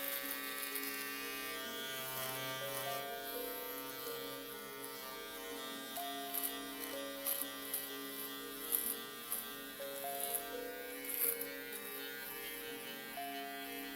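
Electric shaver buzzing steadily, with short crackly bursts in the middle stretch, as when the blades catch hair.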